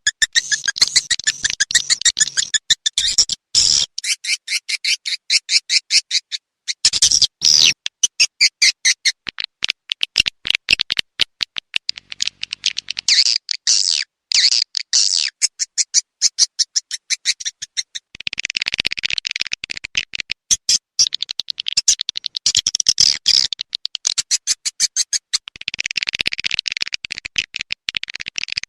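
Edible-nest swiftlet calls: rapid high twittering chirps and clicking trills, coming in dense bursts with short gaps.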